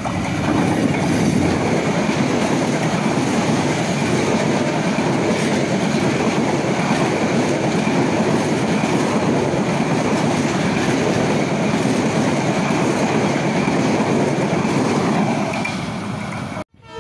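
Diesel-hauled express passenger train passing close by at speed: a loud, steady rush and rumble of the locomotive and coaches on the rails, building up in the first second and cutting off suddenly near the end.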